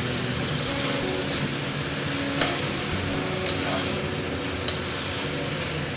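Chicken pieces sizzling as they fry in hot oil with onion and garlic in a metal kadai, stirred with a spatula that clicks against the pan a few times.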